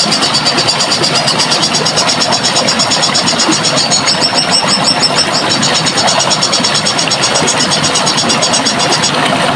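Running water rushing steadily, with a high, rapid trilling call pulsing over it that stops shortly before the end.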